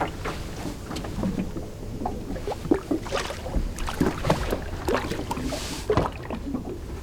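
Water splashing and sloshing against a small boat, with irregular knocks and clatter on the hull, busiest in the middle of the stretch.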